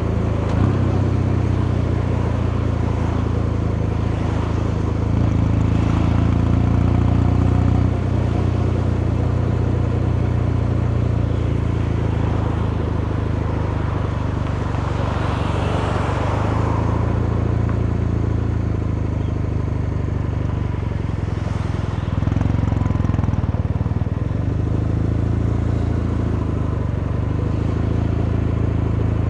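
Kawasaki Meguro K3's 773 cc air-cooled vertical-twin engine and exhaust running steadily under way, the engine note rising and falling a little with the throttle. A brief rush of noise comes about fifteen seconds in.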